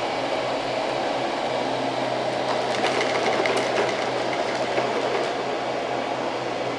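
iLife V1 robot vacuum running: a steady mechanical whir from its motor and brushes over a constant low hum, with a few faint clicks and rattles.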